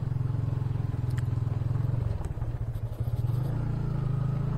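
Yamaha Vixion motorcycle's single-cylinder engine running steadily under way, its note dipping briefly about halfway through.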